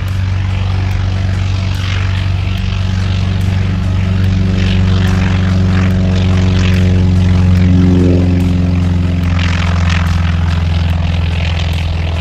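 An old Navy propeller airplane's piston engine at takeoff power, a loud steady drone that grows louder to a peak about eight seconds in and then eases slightly as the plane goes past.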